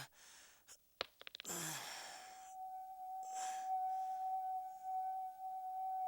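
A sharp clack with a few quick ticks, then a short falling vocal exhale. After that a steady, clear ringing tone, like a singing bowl, sets in and holds.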